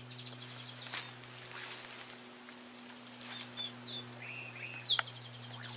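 Small birds chirping and trilling: quick runs of high repeated notes, short falling whistles and a pair of arched calls. Two sharp clicks come about a second in and near the end, over a steady low hum.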